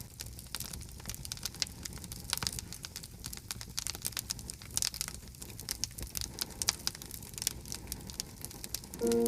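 Firewood burning in a campfire, crackling with many sharp, irregular snaps and pops over a low steady rumble. Music comes in at the very end.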